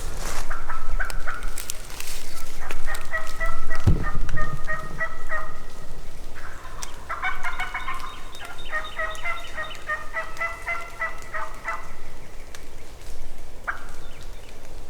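Turkey calling as hen-turkey cutting and yelping: two runs of rapid, sharp repeated notes, one about 3 s in and a longer one from about 7 s to 12 s. This is the hunters' call aimed at drawing a gobbler in. A single low thump comes about 4 s in.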